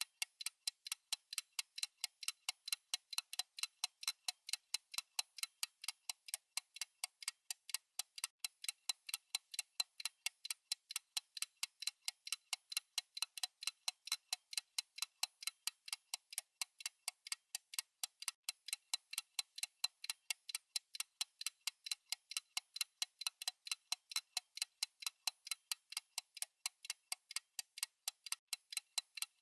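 Fast clock-style tick-tock of a countdown timer: sharp, evenly spaced ticks, about four a second, keeping a steady pace.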